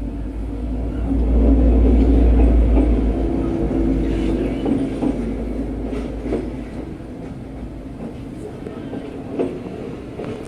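V/Line passenger train running on the rails with a heavy low rumble that swells and then slowly eases, and scattered wheel clicks over rail joints.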